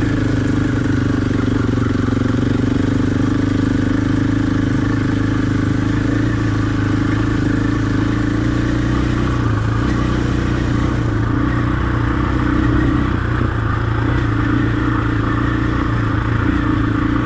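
Enduro dirt bike engine running at a fairly steady speed.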